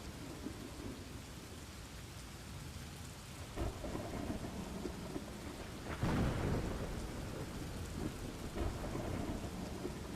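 Steady rain with rumbling thunder: a sharp crack about three and a half seconds in and a louder thunderclap about six seconds in that rolls off over a second or so.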